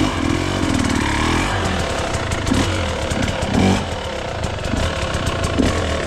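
Gas Gas enduro dirt bike engine running at low revs while it picks its way over rough trail, with short throttle blips that make the pitch rise and fall.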